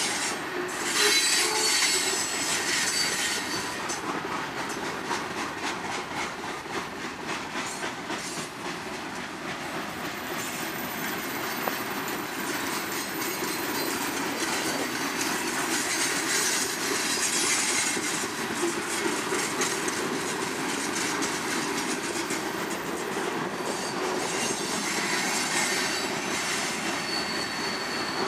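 Freight cars (tank cars, gondolas and covered hoppers) rolling past: a steady noise of steel wheels on rail with rhythmic clicking over the rail joints and a faint high wheel squeal now and then.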